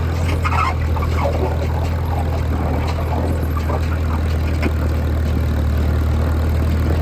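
McCormick-Deering W-4 tractor engine running steadily with a deep, even drone. A few brief voice-like sounds come over it in the first second or so.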